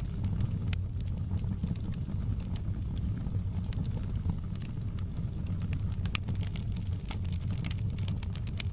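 Fireplace crackling: a steady low rumble of burning with irregular sharp pops and crackles, bunching up near the end.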